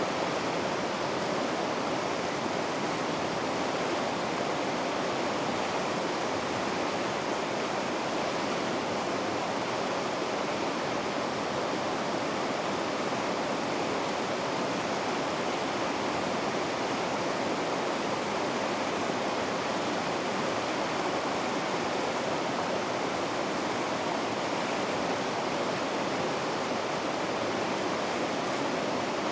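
River rapids rushing, a steady, even roar of water with no change.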